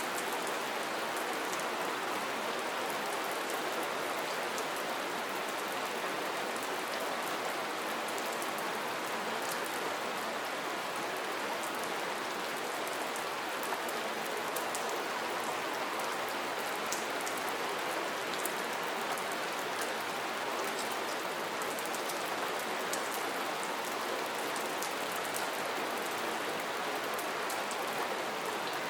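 Soft, steady rain falling: an even hiss with many small, sharp drop ticks scattered through it.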